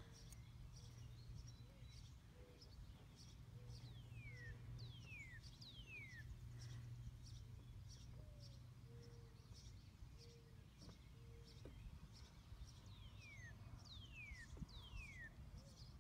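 Near silence with faint birdsong: a bird gives a call of three quick downward-sliding whistles twice, over soft, evenly spaced high chirps and a low steady hum.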